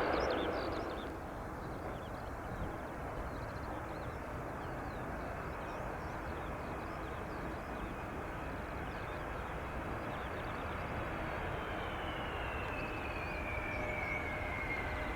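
Steady rumble of a distant airliner on approach, with faint bird chirps. From about two-thirds of the way in, the whine of the approaching Delta Airbus A330-300's jet engines grows louder, its pitch sliding slightly down.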